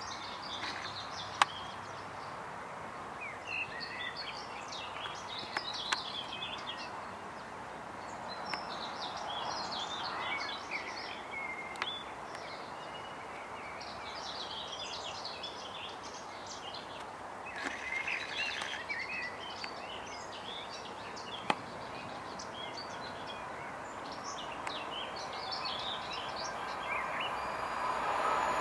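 Small birds chirping and singing in repeated short phrases over a steady background hum, with a few sharp clicks. Near the end, the sound of an approaching train grows louder.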